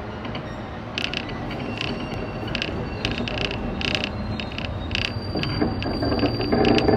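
A 105 series electric local train pulling away, heard from inside the car: a rumble of wheels on rail with a series of sharp clicks as the wheels pass over rail joints and points. A thin high squeal sets in about five seconds in, and the running noise grows louder as the train gathers speed.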